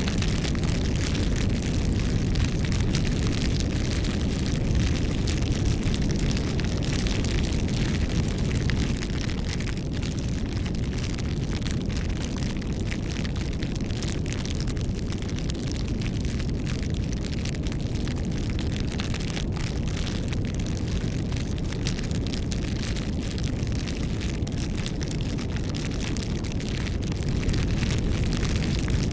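Wood fire burning: a steady low rumble with frequent crackles and small pops throughout.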